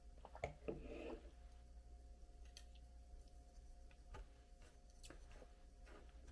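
Near silence: a faint low room hum, with a brief cluster of light clicks and rustling about half a second in, then a few scattered faint clicks.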